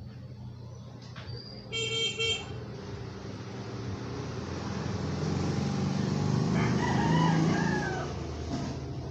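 A rooster crowing, and a vehicle approaching and passing, loudest about seven seconds in and then fading.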